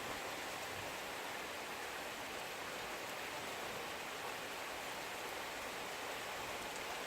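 Heavy rain falling steadily in a thunderstorm, an even hiss.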